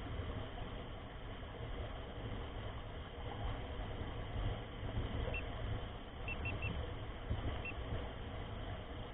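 Rough, fluctuating low rumble of wind buffeting the microphone of a camera riding along on a mountain bike, with riding noise underneath. A few short, faint high chirps come about halfway through and again near the end.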